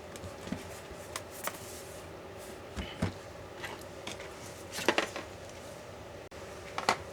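Scattered light clicks and knocks of a MacBook Pro laptop being handled on a work surface as its disassembly begins, the loudest about three and five seconds in, over a steady faint hum.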